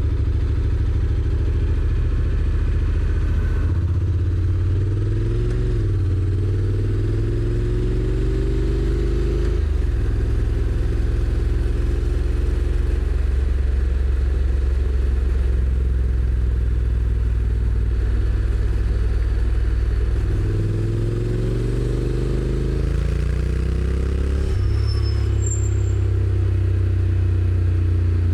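Honda NC750X's parallel-twin engine under way: its note climbs twice as the bike accelerates, each climb ending in a sharp drop to a lower, steady note, with steady cruising in between.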